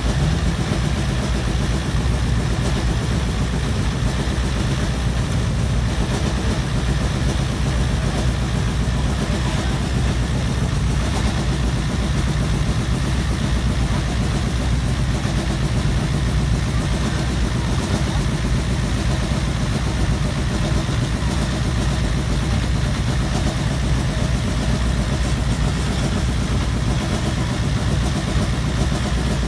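Rally car engine idling steadily, a constant low drone with no revving.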